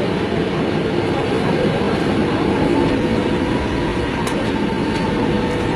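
Steady engine and cabin noise inside a passenger jet, with a faint steady hum and a single click about four seconds in.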